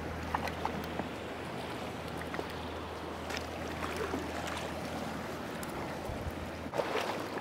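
Mountain creek water rushing steadily, with a few light clicks and splashes scattered through it.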